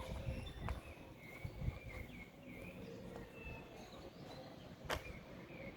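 Quiet outdoor street ambience with faint bird chirps, soft low thuds and one sharp click about five seconds in.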